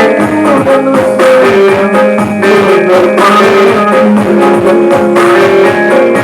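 Band music: a guitar melody over a steady drum beat.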